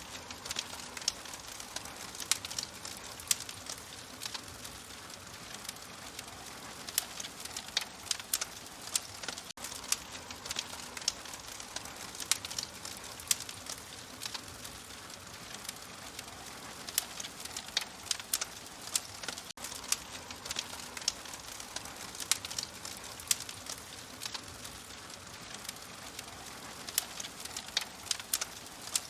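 Wood fire crackling in a fireplace: irregular sharp snaps and pops over a steady soft hiss, with a brief dropout about every ten seconds.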